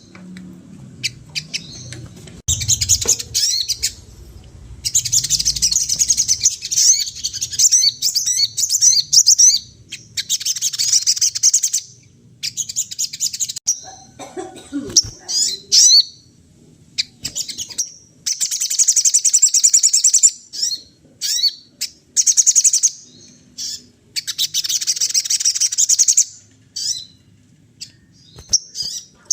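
A sogon singing loud, fast, high chattering phrases of about one to two seconds each, repeated over and over with short pauses between them.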